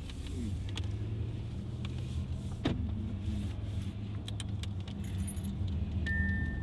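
Cabin noise of a 2015 Audi A8L with the 4.0-litre twin-turbo V8, driving: a steady low drone of engine and road, with scattered light clicks and rattles from inside the car. Near the end a steady high electronic beep starts.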